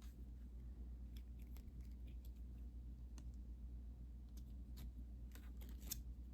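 Faint, irregular small clicks and light scratches of hands working a craft: a yarn needle and yarn being worked through plastic mesh canvas, with a low steady background hum.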